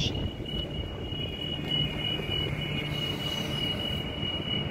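Electric multiple-unit express train running through the station without stopping, a steady noise of rolling stock with a constant high-pitched tone over it.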